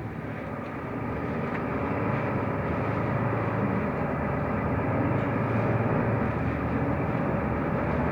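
Cabin noise inside a Mercedes-Benz O345 Conecto low-floor city bus under way: a steady engine and road rumble that grows a little louder over the first couple of seconds.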